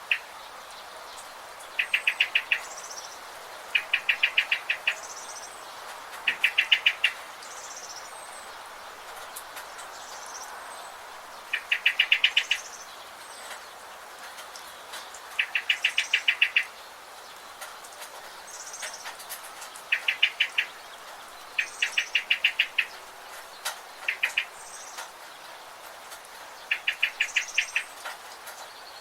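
Birds in a rain forest: one bird repeats a short, fast trill of about eight notes, each lasting about a second and coming every few seconds, with fainter high chirps from other birds between them over a steady background hiss.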